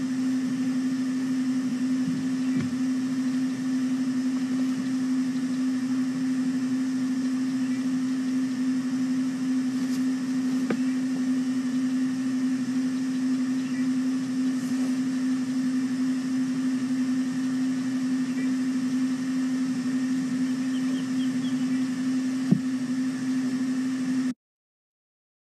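Steady low hum over a constant hiss, with a faint click or two. Near the end the sound cuts out completely for about two seconds.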